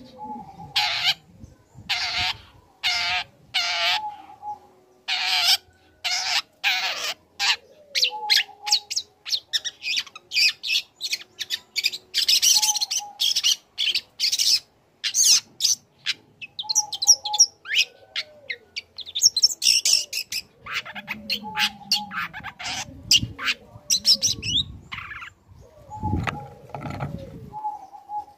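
Young long-tailed shrike singing: a run of harsh rasping calls about once a second, then a fast, varied stream of chirps and whistled notes.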